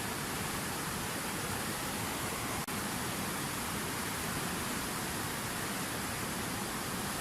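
Water from a fountain falling in a steady, unbroken rush, with a momentary dropout about a third of the way through.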